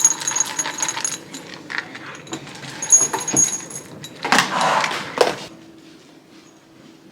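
Metal jingling and rattling with many small clicks and a clear ringing. A louder clatter comes about four seconds in, and the sound stops about a second later.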